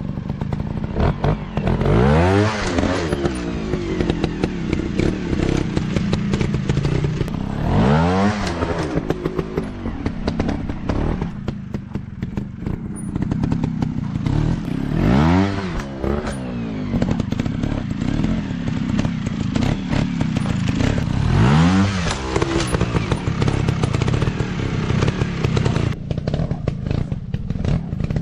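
Dirt bike engine running and revved up then back down four times, roughly every six or seven seconds, with steady clattering and knocking throughout.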